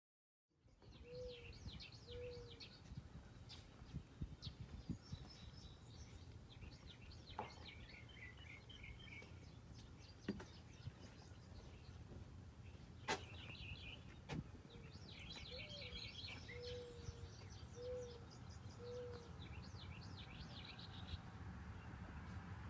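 Faint ambience of birds chirping and trilling in short repeated phrases, with a series of short, low, arched calls heard a few times, over a steady low hum. A few sharp clicks stand out, the loudest about 13 seconds in.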